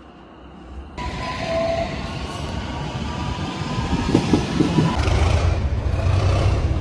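A train running past close by, suddenly louder about a second in, with a deep steady drone setting in about five seconds in.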